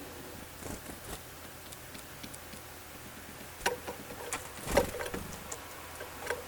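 Small birds at a winter feeding spot: scattered pecking taps and short wing flutters, loudest in a cluster between about 3.5 and 5 seconds in.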